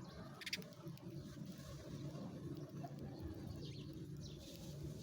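Sparrow chirping: a short chirp about half a second in and fainter chirps near the end, over a steady low rumble.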